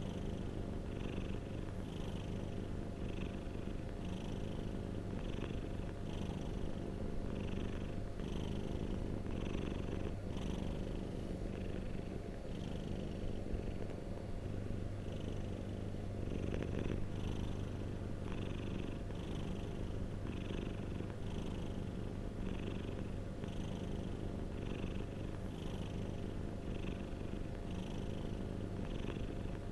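Domestic cat purring up close: a continuous low rumble that pulses in an even rhythm, about three pulses every two seconds.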